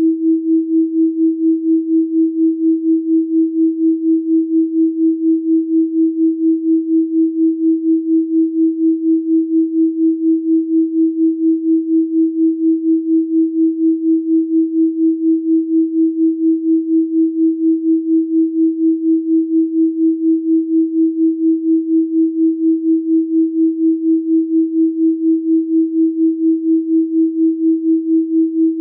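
A steady, pure 324 Hz sine tone, pulsing evenly in loudness several times a second.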